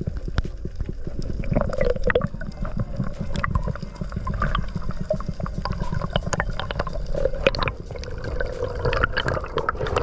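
Underwater sound picked up by a diver's camera: muffled sloshing and gurgling water with a steady low rumble, scattered with many sharp little clicks and crackles.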